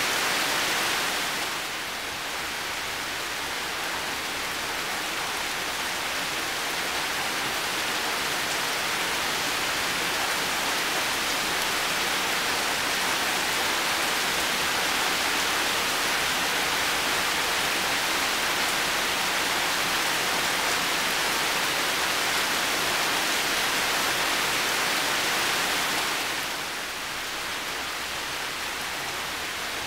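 Heavy rain falling steadily, a dense even hiss with no single drops standing out. It eases slightly for a moment about two seconds in and again near the end.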